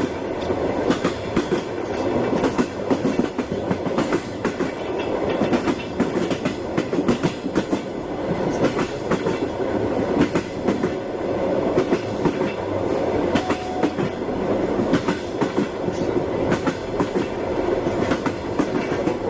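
Steady rumbling noise with many short, irregular clicks and knocks throughout.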